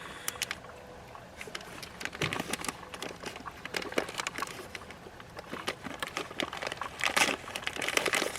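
Plastic bag of Stove Top stuffing mix being handled and crinkled in irregular crackles, with a louder flurry about seven seconds in.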